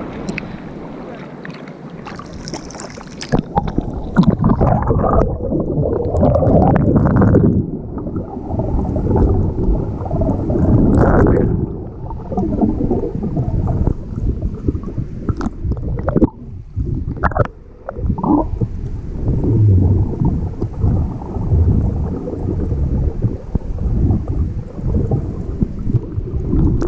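Rough surf in a stormy sea churning and splashing around a swimmer, with scattered sharp knocks. The sound is loud and mostly low and dull, with little high end.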